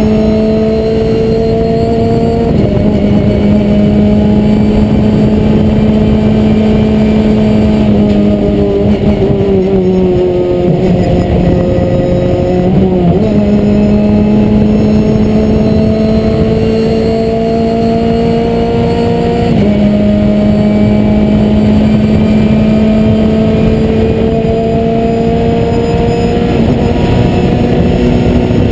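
Renault Clio Cup race car's four-cylinder engine pulling hard, heard from inside the stripped cockpit. The engine note climbs steadily through each gear and drops sharply at each upshift. About a third of the way through it falls away and wavers while the driver lifts and shifts down, then climbs again.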